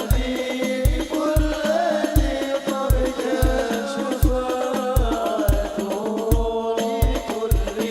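Hadroh ensemble performing sholawat: voices singing a devotional melody over hand-struck frame drums (rebana) and a deep bass drum keeping a steady, driving beat.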